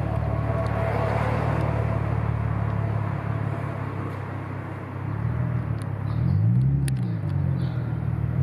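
A motor vehicle engine running with a steady low hum; about six seconds in and again at the end, its pitch rises and falls.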